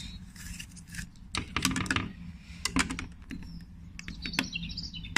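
Irregular clicks and knocks of hard plastic: a window bird feeder's parts being handled and pressed into place.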